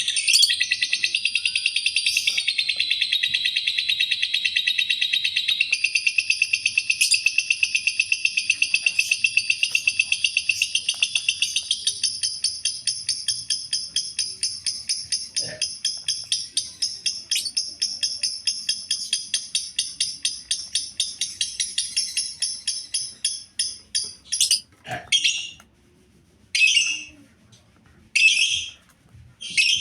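Lovebird chattering: a long, fast run of harsh, high chirps that slowly fades, then breaks into a few separate short chirp bursts near the end.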